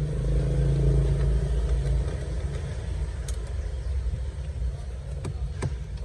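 Low steady rumble, loudest in the first couple of seconds, with a few sharp clicks and taps later on from plastic dashboard trim being handled and pried loose.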